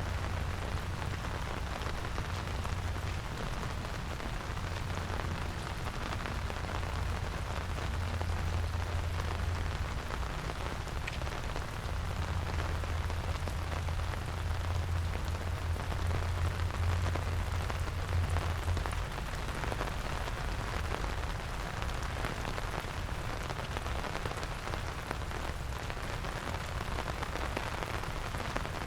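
Steady rain falling, a dense even patter, with a low rumble underneath that swells and fades.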